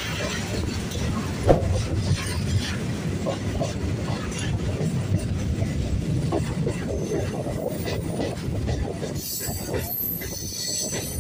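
Electric suburban local train running along the track, heard from its open doorway: a steady rumble with the clickety-clack of the wheels over rail joints and one sharp clack about a second and a half in. A faint high-pitched wheel squeal joins near the end as the train takes a curve.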